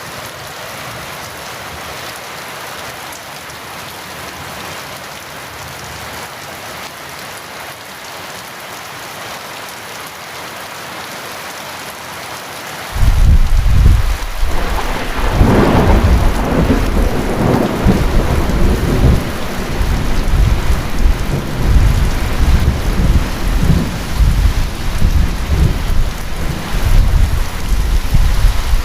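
Heavy rain falling steadily. About thirteen seconds in, a loud thunderclap breaks in sharply, crackles at its peak, then rolls on as a long, deep rumble under the rain.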